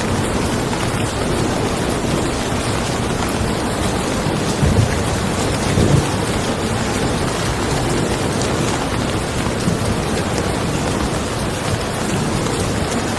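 Steady heavy rain falling on a car, with brief low rumbles of thunder about five and six seconds in.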